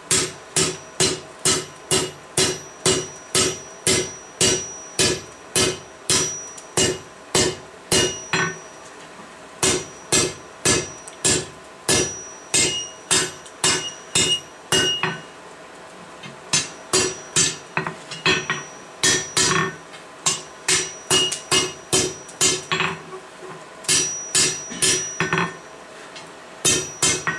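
Blacksmith's hammer striking hot steel on an anvil, scrolling the fishtail end of a forged campfire poker: a steady run of blows, about two to three a second, each ringing briefly. The run breaks off a few times for a second or so.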